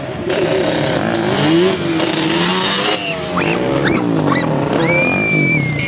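Motorcycle engines revving up and down, more than one at once, their pitch rising and falling.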